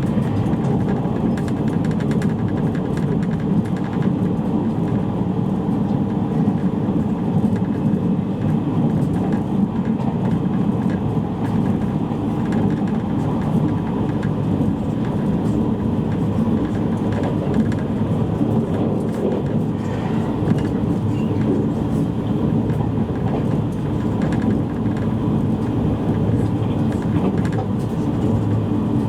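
Steady running noise inside the passenger cabin of a JR East E653 series electric train's motor car at line speed: a continuous low rumble of wheels on rail with a motor whir and faint scattered ticks.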